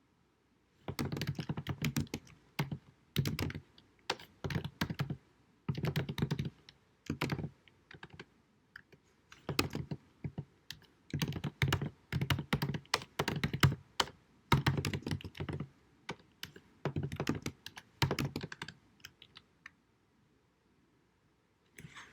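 Computer keyboard typing in bursts of rapid key clicks separated by short pauses, stopping a few seconds before the end.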